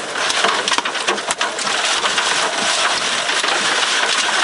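Heavy rain beating steadily on a car's roof and windshield, with scattered sharp taps from larger drops or small hailstones.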